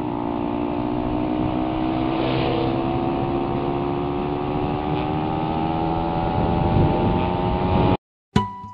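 Suzuki Raider 150's single-cylinder four-stroke engine running at road speed, its note rising slowly and steadily as the bike gathers speed, with wind rush over it. The sound cuts off suddenly about eight seconds in, and a chime-like music note starts near the end.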